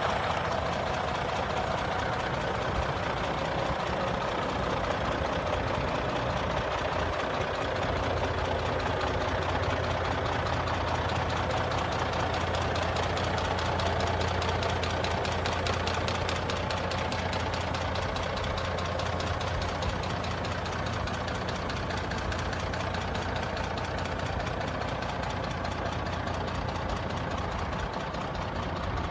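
Scania P94 truck's diesel engine idling steadily, with a steady low hum joining about eight seconds in.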